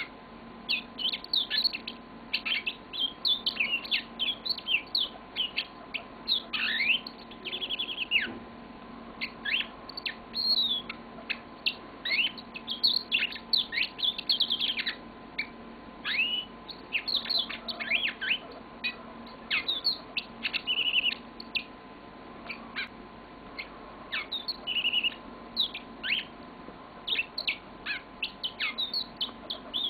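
A yellow-fronted canary singing one long, unbroken song of quick chirps, sweeping notes and short trills, with a faint steady hum underneath.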